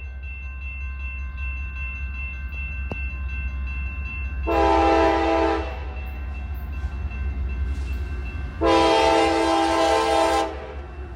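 CSX freight locomotive horn sounding two blasts, a short one about four seconds in and a longer one near the end, over the steady low rumble of the oncoming diesel train.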